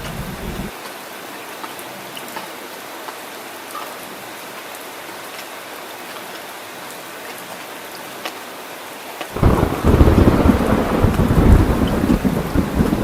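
Heavy rain falling steadily, with scattered drop ticks, during a thunderstorm. A roll of thunder dies away within the first second, and about nine seconds in a new, louder rumble of thunder breaks in and keeps rolling.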